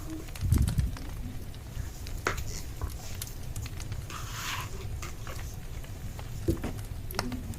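Wood fire crackling with scattered sharp pops over a steady low rumble, and a dull thump about half a second in.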